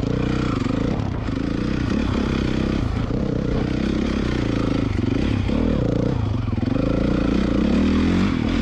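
Dirt bike engine running and revving, its pitch rising and falling over and over.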